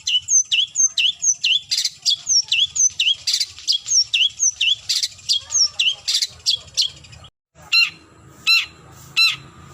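Long-tailed shrike (cendet) calling: a fast run of sharp notes that slide down in pitch, about three a second. After a brief break about seven seconds in, it switches to a slower series of coarser calls, a little under a second apart.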